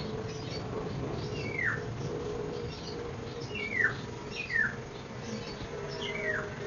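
A bird calling in the background: four short chirps, each falling sharply in pitch, with fainter high twittering over a steady low hum.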